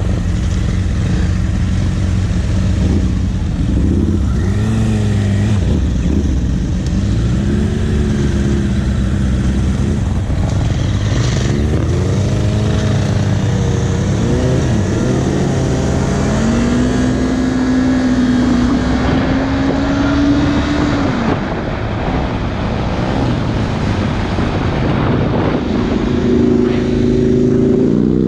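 Sport motorcycle engine heard from on board, repeatedly revving up and dropping in pitch as it accelerates and shifts gears, then holding a steady, slowly rising pitch for several seconds.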